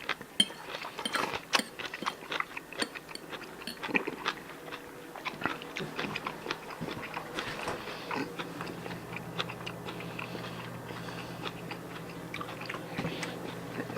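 Someone chewing and biting food close to the microphone: irregular crunchy clicks and smacks. A steady low hum comes in about halfway through.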